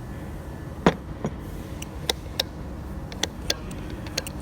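Sharp light clicks and taps, about eight scattered unevenly over a few seconds, over a steady low rumble.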